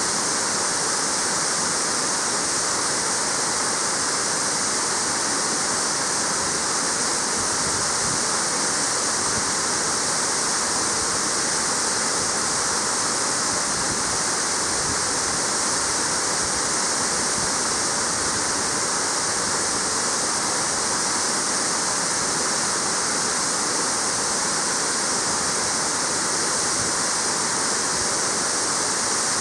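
Waterfall pouring steadily: the even, unbroken rush of falling water splashing into a plunge pool, with plenty of hiss in the highs.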